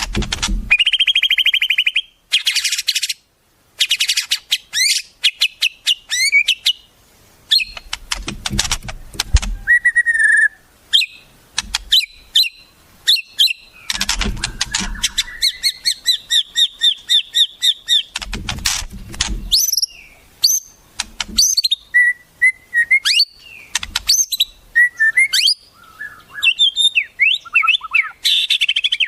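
Wild songbirds calling and singing: quick chirps, whistled notes sliding up and down, and fast buzzy trills, with a few harsh, rattling stretches of a second or two.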